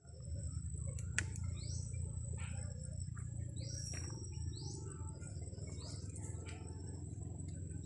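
A bird gives four short, rising chirps a second or so apart. Under them run a steady high insect-like whine and a constant low rumble.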